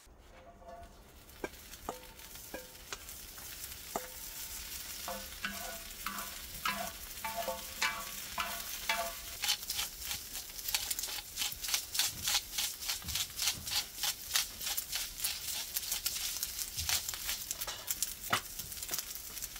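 Chicken gizzards and garlic cloves frying in oil on a cast-iron pot-lid griddle: the sizzle grows steadily louder and turns into a dense spattering crackle in the second half. Ringing metallic clinks sound repeatedly in the first half.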